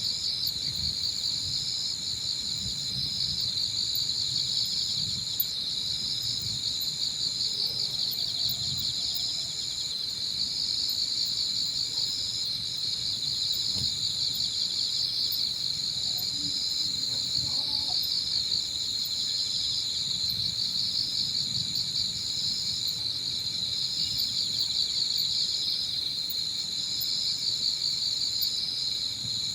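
Chorus of autumn insects singing without pause: a dense, fast-pulsing trill alongside a higher, steady buzz that breaks off briefly every second or two. Gusts of wind rumble low on the microphone underneath.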